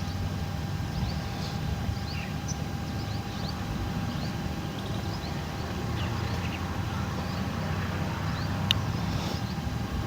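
Outdoor ambience: a steady low rumble with short, high chirps scattered through it, and one sharp click near the end.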